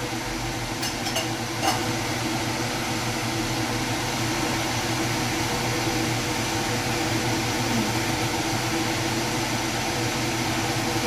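Steady mechanical hum with hiss, like a running fan, with a few light clicks in the first two seconds.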